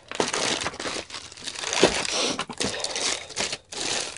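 Crinkling and rustling of plastic packaging in irregular bursts, as an optical DVD drive is unwrapped and handled.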